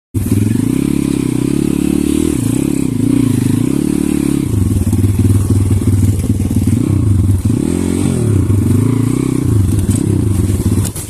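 Pit bike engine running close by, its revs rising and falling again and again as the rider works the throttle.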